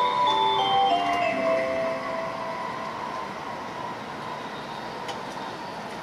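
A commuter train running, heard from inside the carriage as a steady rumble and hiss with a low hum. A short melodic chime of stepped notes fades out in the first two seconds.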